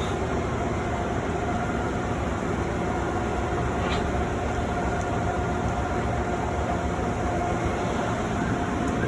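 Amtrak Northeast Regional passenger train pulling into the station: a steady rumble with a faint steady tone above it.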